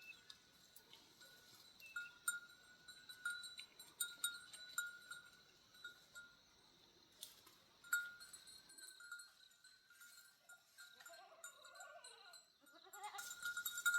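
Goats bleating: faint wavering calls near the end, over a steady high thin tone broken by scattered clicks.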